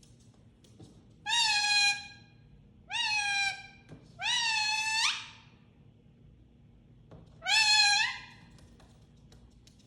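A parrot giving four drawn-out calls, each sliding up in pitch at the start and then holding steady. The third call is the longest, and the last comes after a pause of about two seconds.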